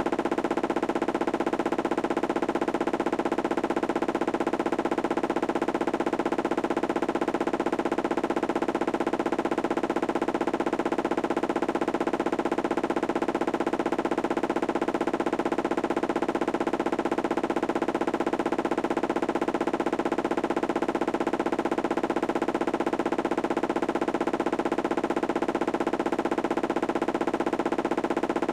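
Candy washing machine on its spin cycle: a steady hum with a fast, even rattle, swelling slightly about every two and a half seconds.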